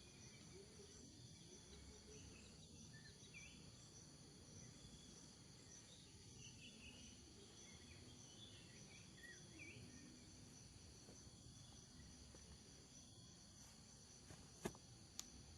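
Faint chorus of crickets and other insects trilling steadily at several high pitches at once, with scattered short chirps. Two sharp clicks come close together near the end.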